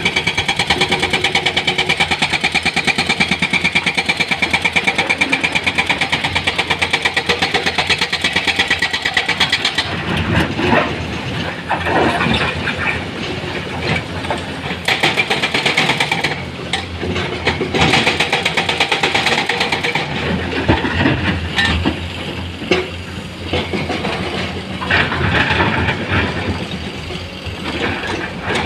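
Heavy diesel engine of earth-moving machinery running, pulsing steadily and rapidly for the first ten seconds. It then turns uneven, rising and falling, with a few sharp knocks.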